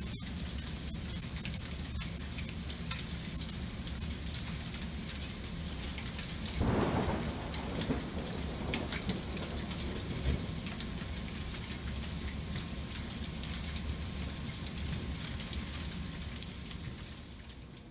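Freezing rain falling: a steady hiss with many small sharp ticks of ice striking surfaces. About seven seconds in, a louder rush swells and fades over a second or two.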